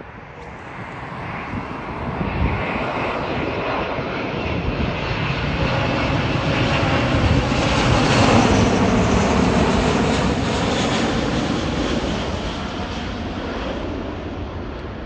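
Jet airliner on approach to land passing close by, its engine noise swelling to a peak about halfway through and then fading. Wind buffets the microphone.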